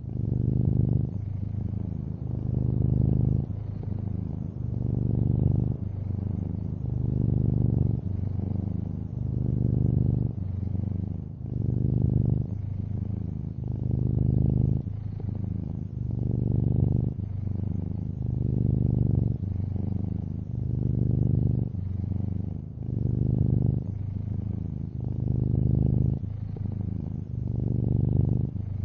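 Long-haired orange tabby cat purring steadily, a low rumble that swells and eases with each breath in and out, about every two seconds.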